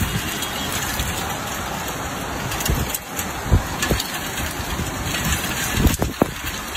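Steady rain falling on a street and parked cars, an even hiss, with a few sharp knocks about halfway through and again near the end.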